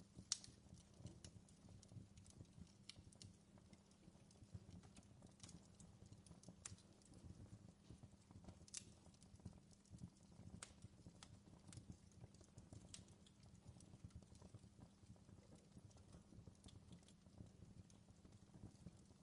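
Wood fire crackling softly in a fireplace: irregular sharp pops and snaps over a low, steady rumble, the loudest pop just after the start.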